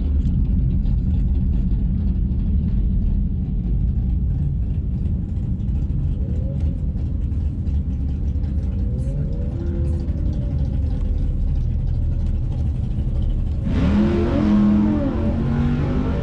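Steady low engine rumble heard from inside a car cabin while waiting at a drag strip's staging lanes. A few faint revs rise and fall, and about fourteen seconds in a louder engine revs up and back down.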